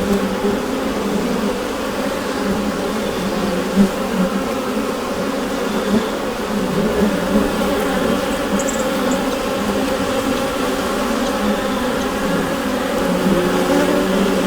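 Honeybee colony buzzing inside the hive: a steady, dense hum of many bees' wings, with a few faint ticks.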